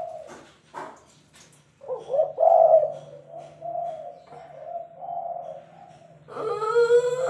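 Spotted dove cooing: a phrase of several low, mellow coos. About six seconds in, a loud, drawn-out wavering wail starts.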